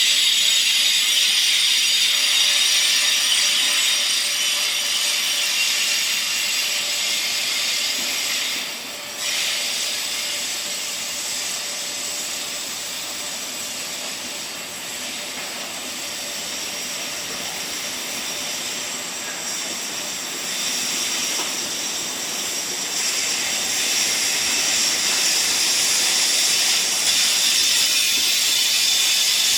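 Train wheels squealing on the rails as a train rolls past: a loud, dense, high screech of many overlapping tones that cuts in suddenly, dips briefly about nine seconds in, eases through the middle and swells again near the end.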